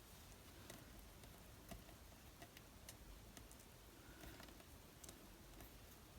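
Near silence with faint, scattered small clicks and taps, from handling tiny die-cut card pieces on a craft table.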